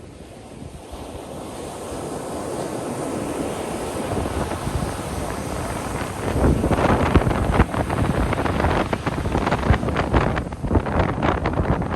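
Ocean surf: a wave swells over several seconds, then breaks about six seconds in, followed by a loud, crackling wash of foam.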